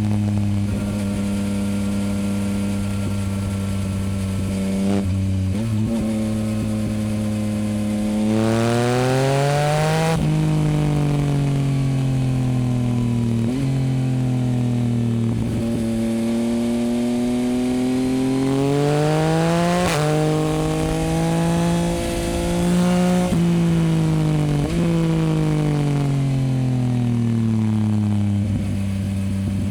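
Yamaha MT-09's inline three-cylinder engine through a Dominator HP8 aftermarket exhaust, under way. The engine note climbs under acceleration and drops suddenly at gear changes, then falls away as it slows, several times over.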